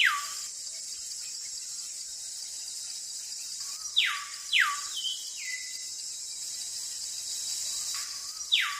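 Looped background soundtrack: a steady, cricket-like high hiss with a pair of falling whistles repeating about every four and a half seconds, three times.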